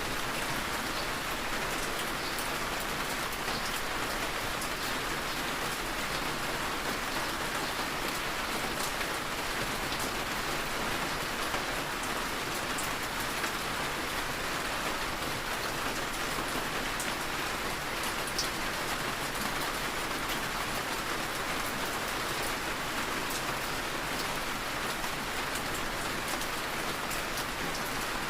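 Heavy rain falling steadily, a constant hiss with scattered sharp drop ticks.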